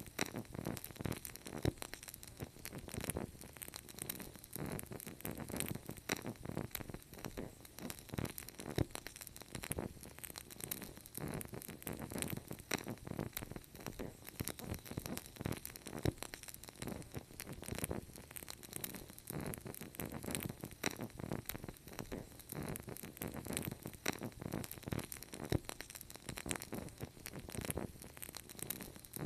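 Fireplace fire crackling steadily, with many small, irregular pops and snaps over a soft hiss.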